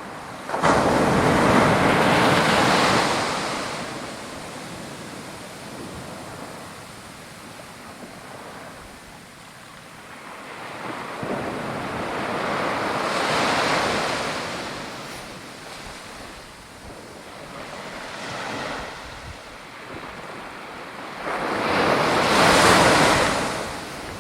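Sea waves breaking on the shore: surf washing in repeated surges, the loudest crashing in suddenly about half a second in and another big one near the end, with a softer hiss of wash between.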